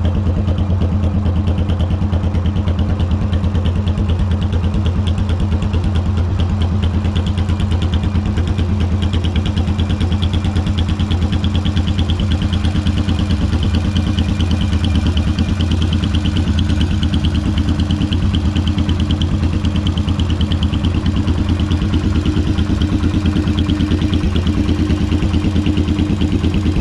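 Yamaha V-Star 1100's air-cooled V-twin idling steadily, with an even, rapid exhaust pulse and no revving.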